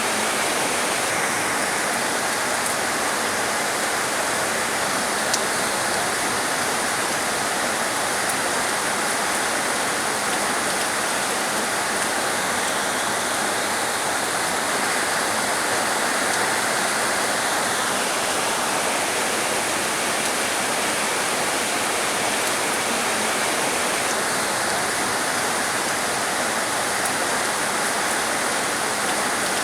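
Heavy rain falling steadily, a dense even hiss with a brief click about five seconds in.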